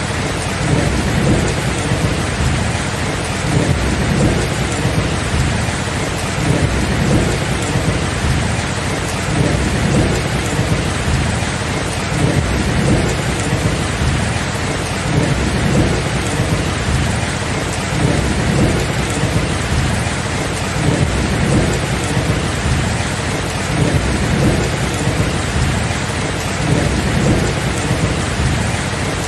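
Heavy, steady rain with a continuous low rumble of thunder underneath, rising and falling without any sharp cracks.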